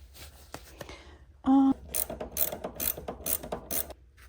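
Hand ratchet wrench clicking in a series of six or seven short strokes, working a bolt with a socket. A brief loud tone sounds just before the strokes start.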